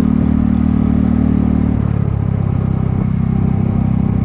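Kymco People 250 scooter's single-cylinder engine and exhaust running steadily, its note shifting about two seconds in. The exhaust leaks have been plugged with high-heat epoxy, and the owner finds it quieter and more like a normal scooter.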